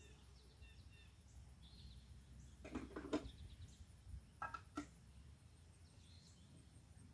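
Faint backyard songbirds chirping and singing here and there over a low outdoor hum, with a few louder sharp clicks or calls about three and four and a half seconds in.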